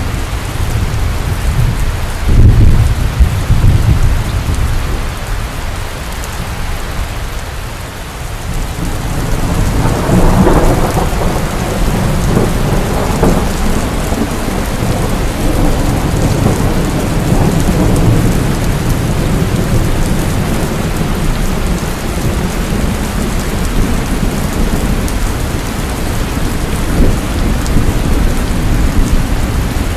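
Heavy rain pouring steadily, with thunder: a loud low crack about two seconds in, then a long rolling rumble from about ten seconds in that fades slowly.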